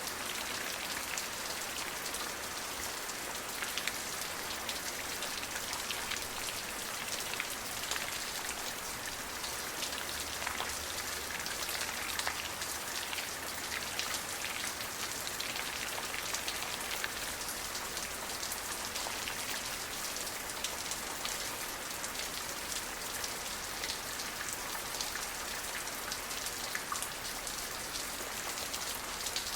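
Steady rain falling, an even hiss of many drops with individual drops ticking on a surface throughout.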